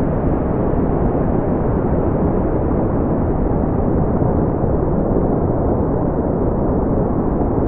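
Continuous brown noise: a steady, deep rushing hiss with most of its energy low and little above a couple of kilohertz, unchanging throughout.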